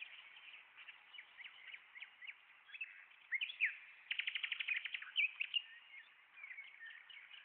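Songbirds chirping and twittering in short sliding notes, with a quick trill of rapid repeated notes a little over four seconds in.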